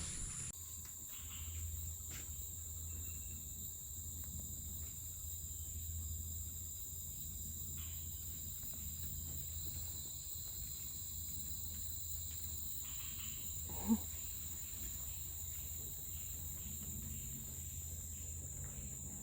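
Steady high-pitched chorus of rainforest insects, with a low rumble underneath and one brief sharp sound about two-thirds of the way through.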